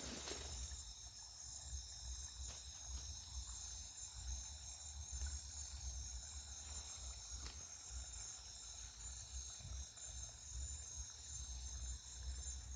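Night insects, crickets, chirring together in a steady, continuous high-pitched chorus, with a low rumble underneath and a few faint clicks.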